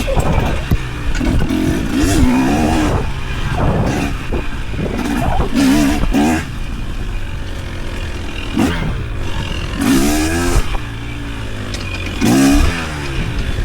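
Off-road vehicle engine revving up and down repeatedly on a trail, its pitch climbing and dropping with the throttle and loudest in several surges.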